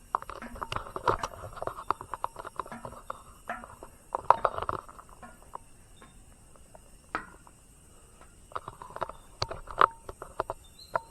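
Footsteps climbing up, with irregular knocks and scrapes, loudest about four seconds in and again near the end.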